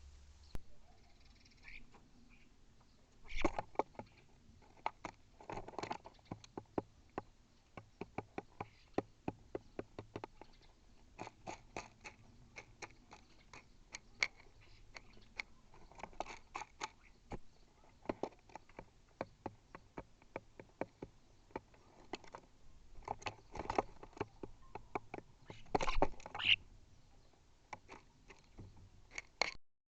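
A bird pecking at seed on a feeder right by the microphone: rapid, irregular sharp taps and crunches, with a few brief scuffling bursts.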